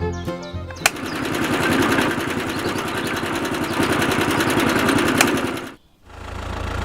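A small motor-driven machine running with a fast, even chatter for about five seconds, then stopping abruptly; a low steady hum follows.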